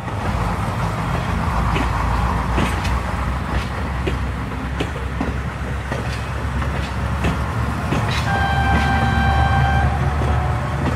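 Train sound effect: a running train with a steady low rumble and regular clicks a bit under a second apart. Near the end a train whistle blows one steady note for about a second and a half.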